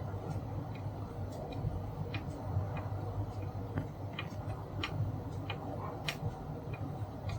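Light, irregular clicks and ticks, about two a second, the sharpest about six seconds in, over a steady low hum.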